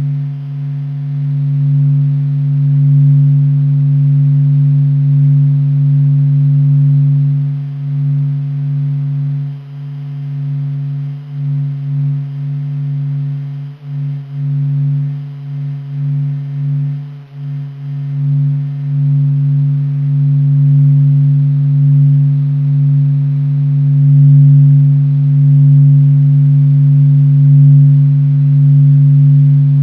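Sonified Sun: NASA's sped-up recording of the Sun's surface vibrations, heard as a deep steady drone with a fainter tone an octave above. Its loudness wavers and dips several times in the middle.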